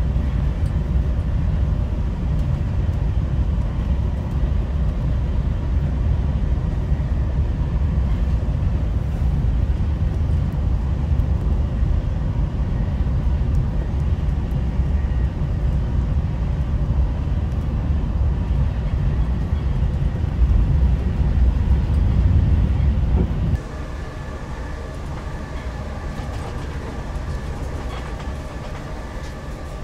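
Amtrak Acela train running, heard inside the passenger car as a steady low rumble. About three-quarters of the way through it drops abruptly to a quieter hum with a few steady whining tones.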